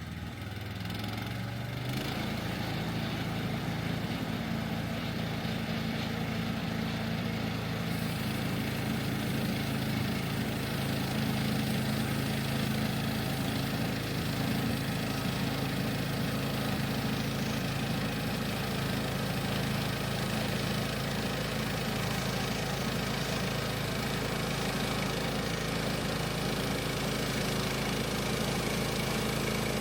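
The engine of a Woodland Mills HM130 Max portable bandsaw mill running steadily, picking up speed about two seconds in.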